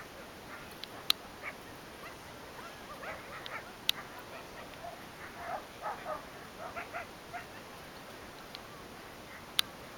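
Dogs whining and yipping in short, scattered calls, busiest in the middle, with three sharp clicks spread through it.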